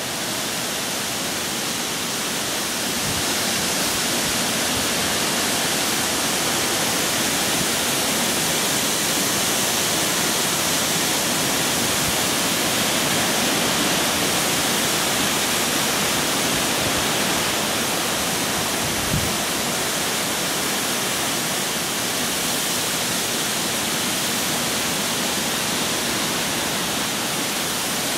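Heavy hurricane rain pouring steadily, a dense even hiss, with one short low knock about two-thirds of the way through.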